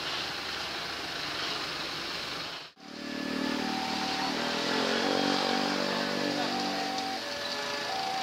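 Steady traffic and rail noise at a level crossing. After a sudden cut about three seconds in comes the low engine sound of an approaching diesel locomotive, over an electronic level-crossing warning chime that repeats, alternating between two pitches.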